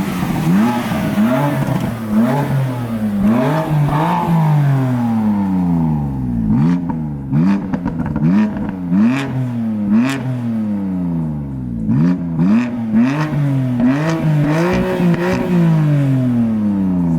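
Car engine revved over and over, the pitch climbing and dropping about once a second, with sharp exhaust pops and cracks between the revs from about six seconds in.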